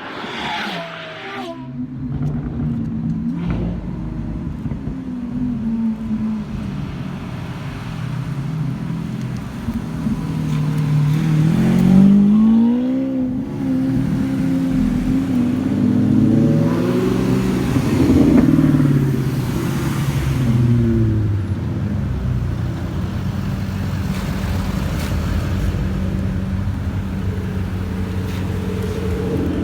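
Car engines running and being revved, the engine note rising and falling several times over a steady low rumble, loudest around the middle.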